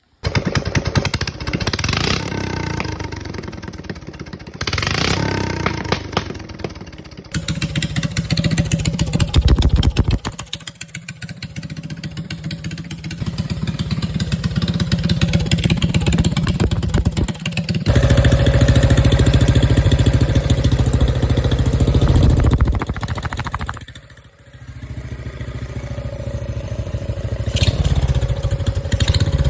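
Honda GX270 single-cylinder engine on a minibike running and revving, its level rising and falling, with abrupt changes several times as short runs are spliced together.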